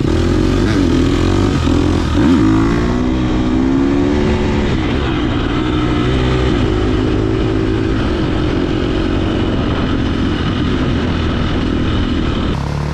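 Dirt bike engine revving hard under load while climbing a hill, its pitch rising and dropping several times in the first few seconds as the throttle is worked, then holding fairly steady.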